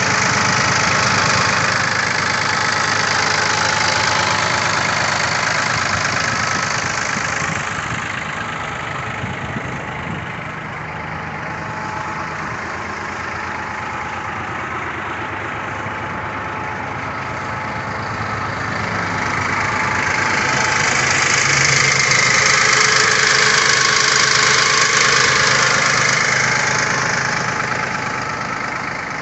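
2002 Case IH CX50 tractor's diesel engine idling steadily, louder near the start and again in the latter half.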